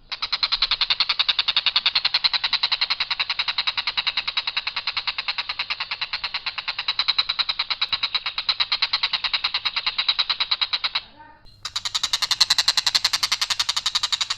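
Tengkek buto kingfisher giving its harsh, rapid-fire call, one long unbroken run of fast repeated notes. It stops briefly about eleven seconds in, then another run starts.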